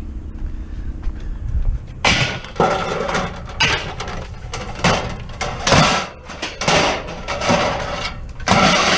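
Scrap metal scraping and clattering in a series of loud, uneven bursts as it is shoved into place. The bursts start about two seconds in, over a low steady rumble.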